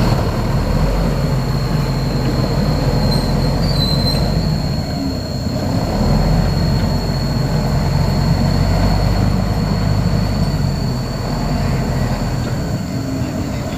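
Heavy earthmoving machinery at work: a big diesel engine running steadily under load, with a thin, steady high-pitched squeal over it.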